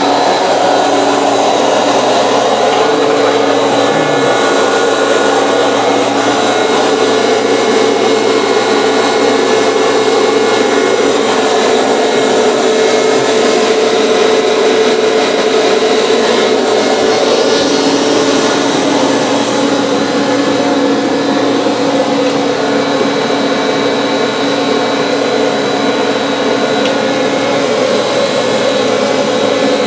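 Vintage vacuum cleaner running steadily: a loud motor hum and whine with a high held tone. The pitch of its tones shifts slightly about halfway through.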